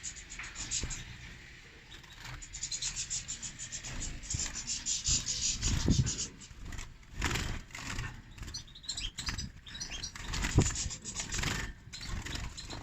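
Caged goldfinches twittering in quick high chirps and trills, with a couple of louder low thumps, about halfway through and again near the end.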